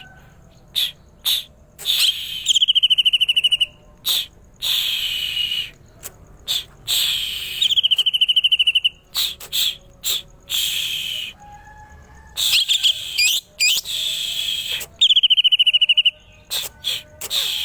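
Greater green leafbird singing: a varied run of phrases, with fast rattling trills mixed with harsher sweeping notes and short sharp chips, broken by brief pauses.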